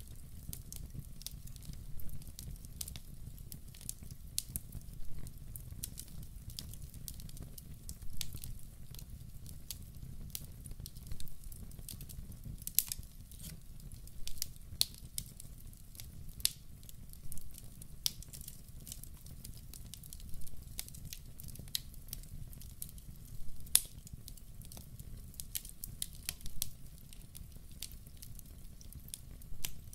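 Wood fire burning in a fireplace: a steady low rumble of flames with frequent irregular crackles and snaps, and a louder pop every few seconds.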